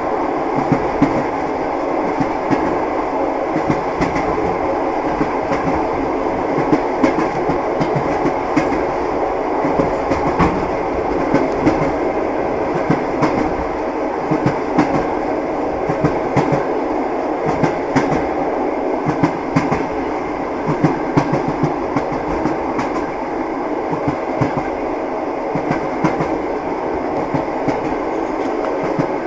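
Passenger train carriage in motion, heard from inside: a steady rumble of the running gear with the clack of the wheels over the rail joints.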